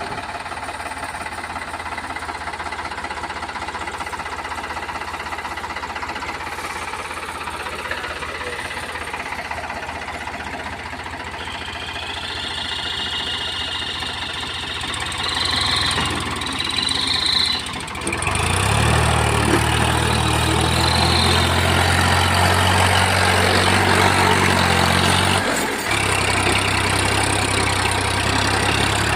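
Diesel engine running steadily, then working harder and louder from about 18 seconds in, under load while a stuck truck is being pulled out of a field, with a short dip a few seconds before the end.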